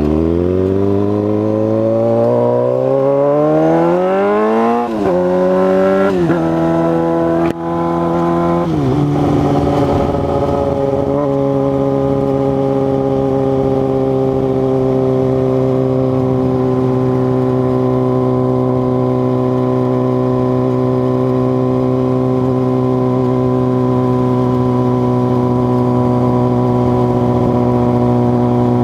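2006 Suzuki GSX-R600's inline-four engine under hard acceleration. The revs climb steeply and drop back with quick upshifts several times in the first nine seconds or so, then the bike settles into a steady cruise at constant revs.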